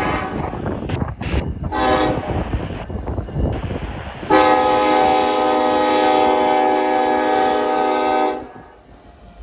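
Freight locomotive air horn sounding over the rumble of a passing train: a blast ending just after the start, a short toot about two seconds in, then one long blast of about four seconds that cuts off near the end.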